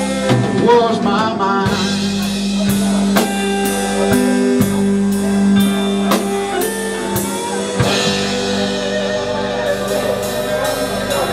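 Live blues band playing: a sung phrase near the start, then held guitar notes over a steady drum beat with cymbal hits.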